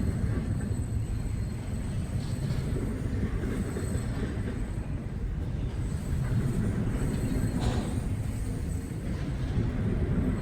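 Train passing, with a steady rumble of railcars rolling by.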